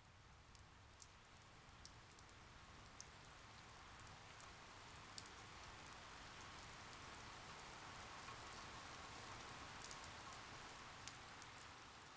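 Faint light rain: a steady hiss with scattered small drip ticks, slowly getting louder.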